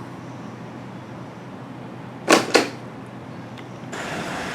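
A pair of quick whooshing swishes about two seconds in. Near the end the background switches abruptly to the steady noise of road traffic.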